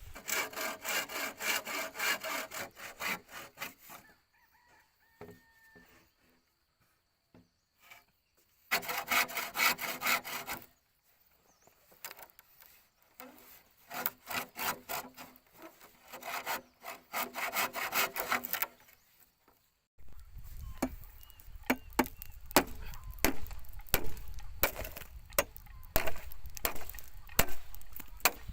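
Hand saw cutting through bamboo in bursts of rhythmic back-and-forth strokes, with short pauses between bursts. Near the end the sawing gives way to a series of separate sharp knocks.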